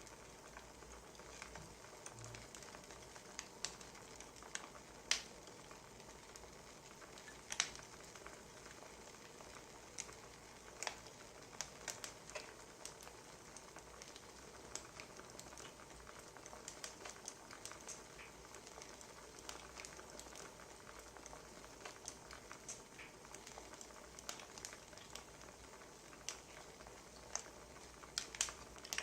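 Wood fire crackling: irregular sharp pops and snaps over a faint steady hiss, a few louder pops standing out.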